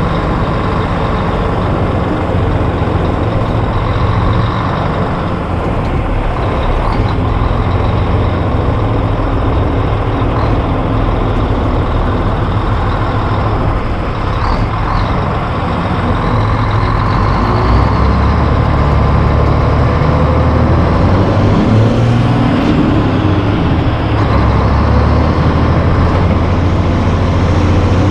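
Heavy diesel truck under way, its engine running steadily, then rising and dropping in speed a few times in the second half as it shifts gears.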